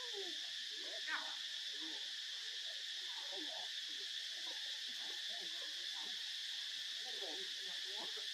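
Steady, high buzzing chorus of insects, with faint scattered chirps and squeaks from other animals over it and one brighter chirp about a second in.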